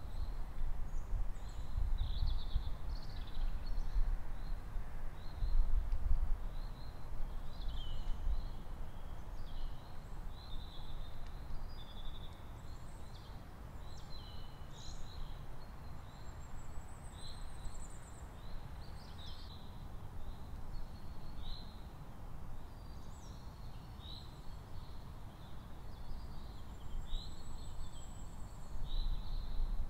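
Outdoor nature ambience: birds chirping and calling over and over, with a high, thin trill now and then, over a steady low rumble.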